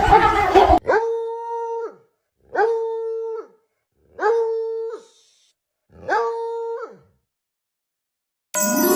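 A dog howling four times: short, steady, alike howls about a second long and a second and a half apart, each dropping away at the end. Just before the end, chiming music starts.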